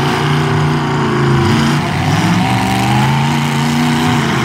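Demolition derby truck engines revving hard, their pitch rising and falling as they accelerate and back off.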